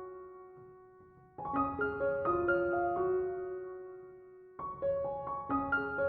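Soft solo piano background music: gentle arpeggiated phrases whose notes ring and fade, a new phrase beginning about a second and a half in and another near the end.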